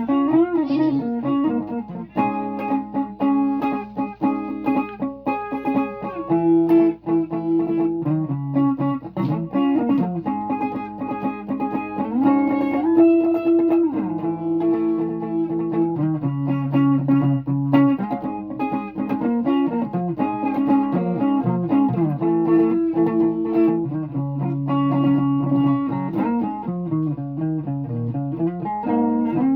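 Guitar playing a run of melodic single notes, many of them bent or slid in pitch.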